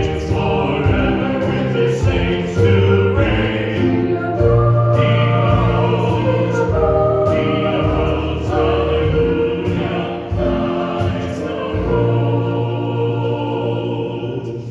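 Hymn sung by voices with instrumental accompaniment and a held bass line, getting slightly quieter toward the end.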